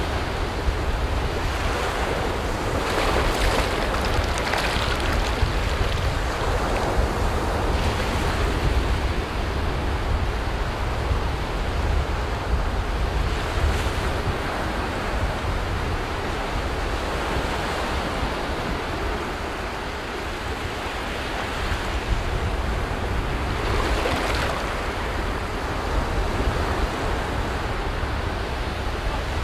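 Sea waves surging and breaking on a beach in a steady wash of surf, swelling louder a few times. Wind rumbles on the microphone underneath.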